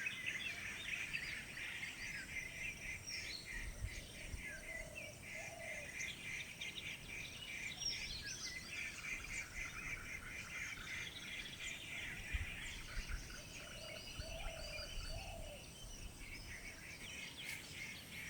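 Faint outdoor ambience of many birds chirping and calling, with two short lower warbling calls partway through.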